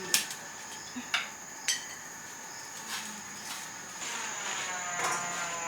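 Insects chirping in a steady high drone that grows louder about four seconds in. Three sharp clinks of cookware come in the first two seconds.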